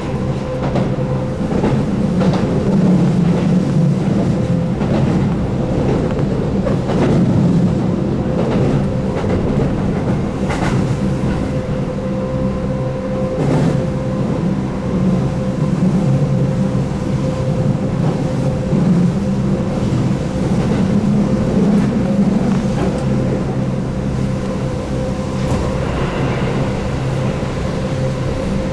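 Keihan 8000-series electric train running at speed, heard inside the car: a steady low rumble and hum from the running gear and DC traction motors, with irregular clicks of the wheels over rail joints.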